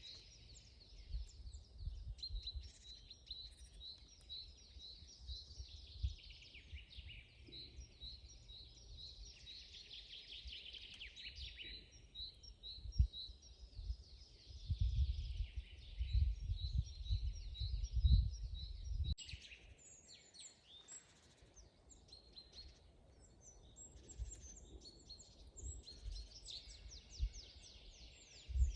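Several songbirds singing and chirping, with quick runs of repeated high notes. Bursts of low rumble come and go beneath them, loudest around the middle.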